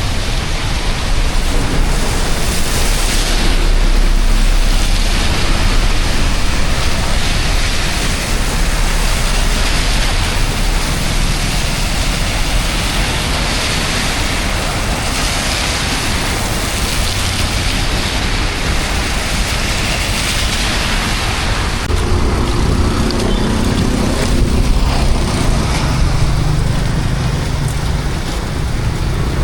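Steady, loud rush of water. About 22 seconds in, a low engine hum of a motor vehicle joins it.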